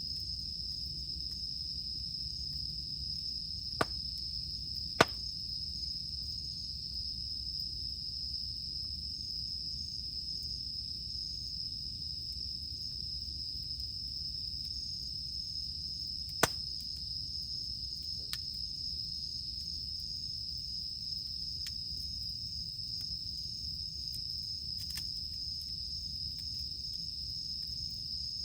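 A wood campfire burning with a low rumble and occasional sharp pops, three of them loud: two close together about four and five seconds in, and one about sixteen seconds in. Cicadas drone steadily in a single high, even tone behind the fire.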